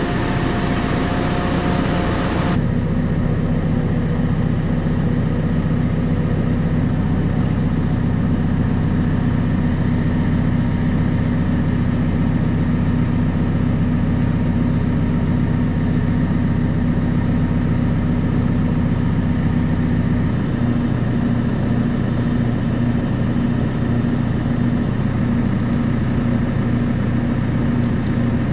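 JCB telehandler's diesel engine running steadily at idle; its note shifts slightly about twenty seconds in.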